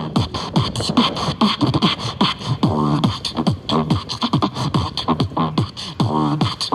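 Beatboxing: a fast rhythm of mouth clicks and percussive hits mixed with short hummed vocal tones that slide down in pitch.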